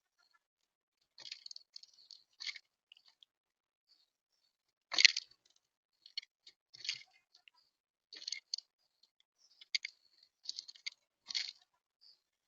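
Eurasian collared doves pecking seed at a feeder right by the microphone: irregular sharp clicks and crunches of beaks on seed and the feeder, with one louder knock about five seconds in.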